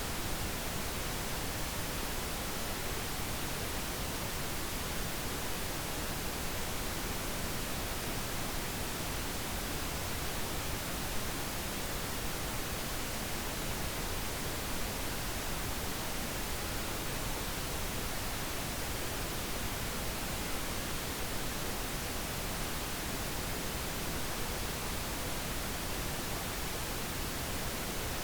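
Steady pink noise: an even, unbroken hiss spread across all pitches.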